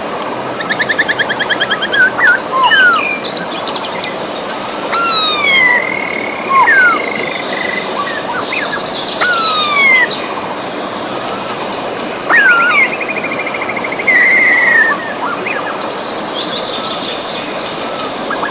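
Steady rush of a river, with several birds singing over it: repeated downslurred whistles, rapid trills and a held whistled note.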